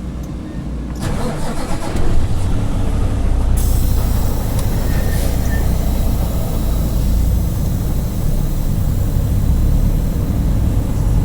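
Semi-truck's diesel engine picking up about two seconds in and then running steadily with a low rumble; a hiss joins it about a second and a half later.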